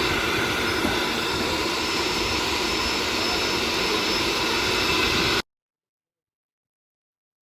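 Steady, loud rushing noise with a few faint steady tones through it, like an engine. It cuts off abruptly to dead silence about five and a half seconds in.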